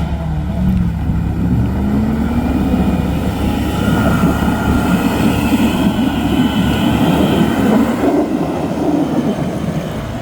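Off-road vehicle's engine running hard under load, its pitch rising and falling as the throttle works, with a higher whine from about four to eight seconds in.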